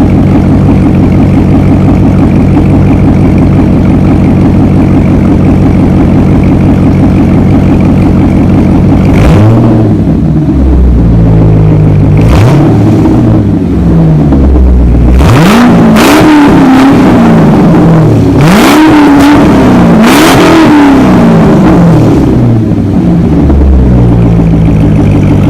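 C6 Corvette V8 exhaust with an X-pipe and deleted mufflers, on stock headers and cats, idling steadily. About a third of the way in it is revved several times in quick blips, each rising and falling back, then it settles back to idle near the end.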